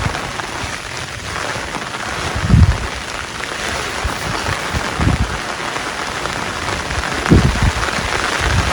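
Heavy rain falling steadily, an even hiss, with three short, dull low thumps a couple of seconds apart that stand out above it.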